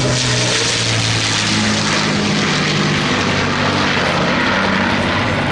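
Avro Lancaster's four Rolls-Royce Merlin V12 piston engines and propellers droning steadily in flight, the engine note dipping slightly in pitch in the first second.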